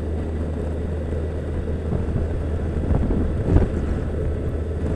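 Yamaha FJR1300ES inline-four engine running steadily at cruising speed, with wind rushing over the microphone and a louder gust a little past halfway.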